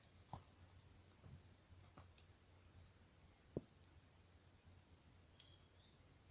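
Wood campfire crackling faintly, with a few scattered pops and ticks; the loudest pop comes about three and a half seconds in.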